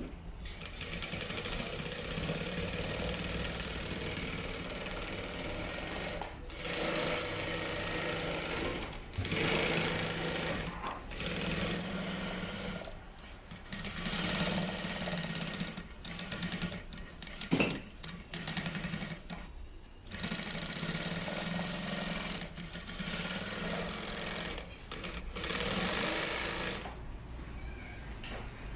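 Mattress zipper sewing machine running in stretches of rapid stitching, stopping briefly between runs, with one sharp knock about two-thirds of the way through.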